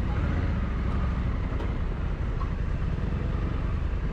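Steady low rumble of a running motor vehicle, over a continuous hiss of road noise.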